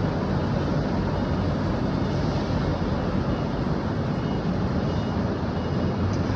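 Steady rumble of a moving truck: engine and road noise holding even, with no change in pitch or level.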